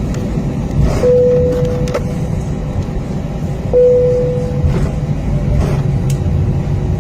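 Cabin of an Airbus A320-232 holding for takeoff: a steady low rumble from its IAE V2500 engines at idle. Two single-pitch tones sound over it, one held for about a second near the start and a second one about halfway through that fades away.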